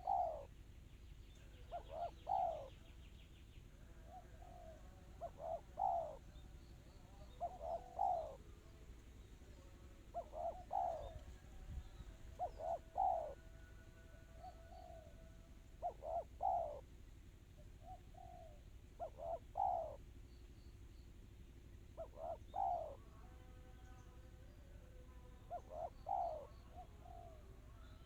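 Spotted dove cooing: a short phrase of two or three quick, close-set coos, repeated about every three seconds.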